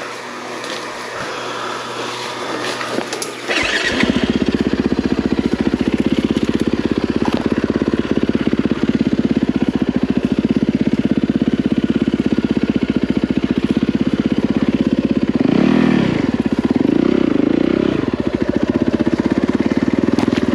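Yamaha WR450F dirt bike's single-cylinder four-stroke engine starting about three and a half seconds in, then idling steadily, with two short blips of the throttle near the end.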